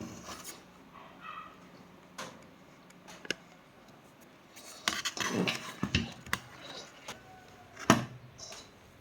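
Clicks, taps and clattering of small hard objects being handled and set down during repair work on a speaker, with a busy burst of clatter about halfway through and one sharp knock near the end.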